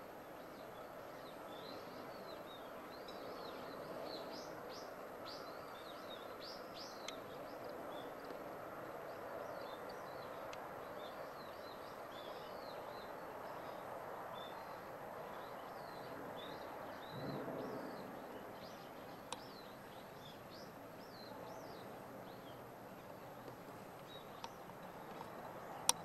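Small birds chirping, many short high chirps scattered throughout over a steady low background noise, with a brief low rumble about seventeen seconds in.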